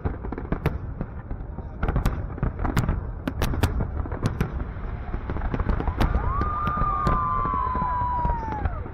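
Fireworks going off in a continuous barrage of sharp bangs over a low rumble. A whistling tone joins about two-thirds of the way in and slides slightly down before fading.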